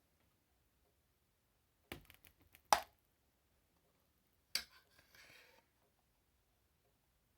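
Slime being stirred in a container: a few sharp clicks of the stirring utensil against the container about two seconds in, then a tap and a short scrape about halfway through, with quiet between.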